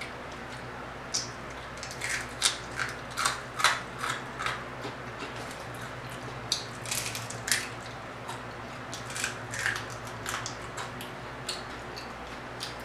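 Close-up mouth sounds of eating crispy fried croaker off the bone: short wet crunches, clicks and lip smacks in clusters, over a steady low hum.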